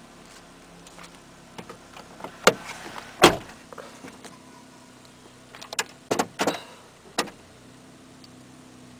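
Sharp clicks and knocks from handling inside the cab of a 2010 Ford Ranger, the loudest about three seconds in and a quick cluster about six seconds in, over a steady low hum.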